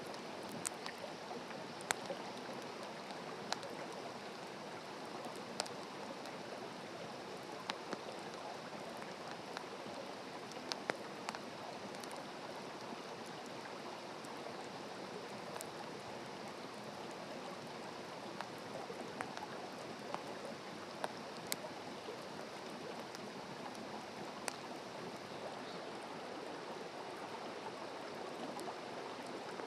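Wood campfire burning: a steady hiss with irregular sharp crackles and pops, more frequent in the first half.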